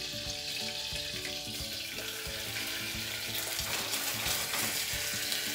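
Olive oil and butter sizzling steadily in a hot saucepan, with fine crackling, under faint background music.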